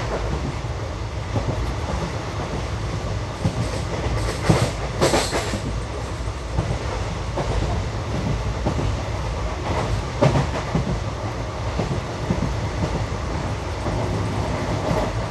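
Passenger express train running along the track, heard from aboard: a steady rumble of the coaches on the rails, with a few sharper wheel clicks over rail joints.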